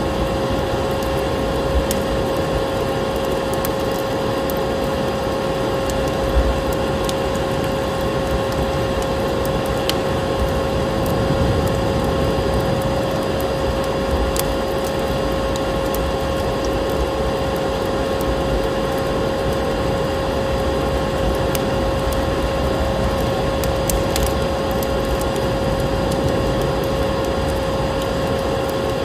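A layered ambience mix: a vacuum cleaner's motor with a steady hum over a constant rush of snowstorm wind, with scattered sharp clicks of a crackling wood fire.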